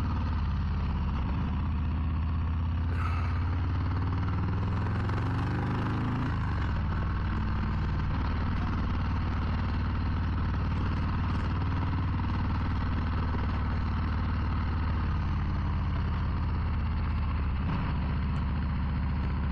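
Harley-Davidson Low Rider ST's Milwaukee-Eight 117 V-twin running at low speed. Its pitch climbs for a few seconds from about three seconds in, drops sharply around six seconds, and then runs steadily.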